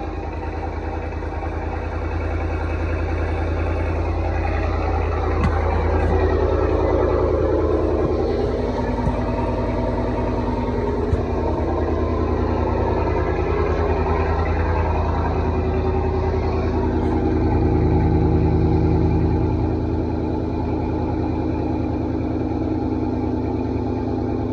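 A Chevy Silverado's 6.2L V8 idling through a Borla S-Type aftermarket exhaust shortly after a cold start, with a deep, steady exhaust note. The note swells slightly twice, a few seconds in and again past the middle.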